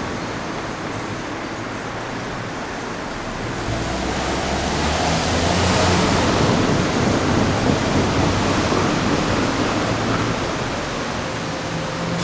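Nishitetsu electric train running past. A rumble comes in about four seconds in, is loudest around six seconds and eases off near the end.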